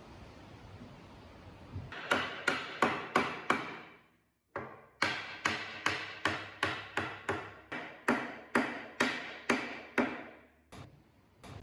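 A hammer striking metal again and again, about three blows a second, each blow ringing briefly, with a short break about four seconds in.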